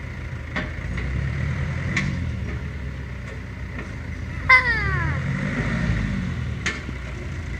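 Fire-damaged tractor's engine running steadily as it drives, with a few sharp clicks and a short falling squeal about halfway through.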